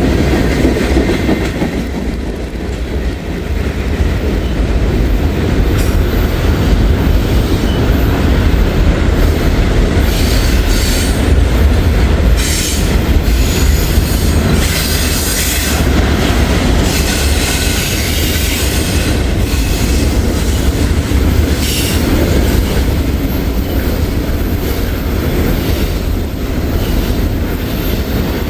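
A freight train of empty hopper cars and tank cars rolling past close by: a loud, steady rumble and clatter of wheels over the rails, with some wheel squeal.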